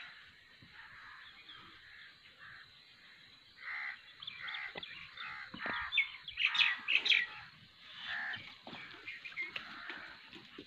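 Birds chirping and calling, many short overlapping calls, densest and loudest a little past the middle.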